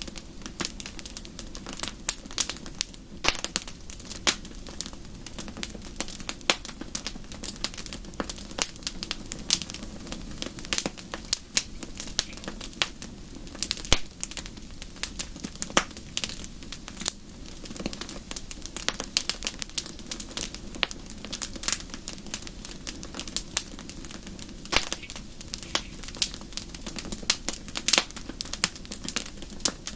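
Wood fire crackling in a fireplace: dense, irregular snaps and pops over a steady low rumble of the flames.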